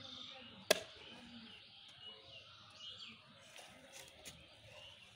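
Birds chirping faintly in short, repeated calls, with one sharp knock less than a second in.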